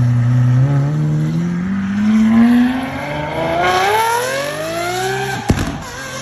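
High-performance car engine accelerating hard, its pitch climbing steadily for several seconds, with a sharp crack about five and a half seconds in.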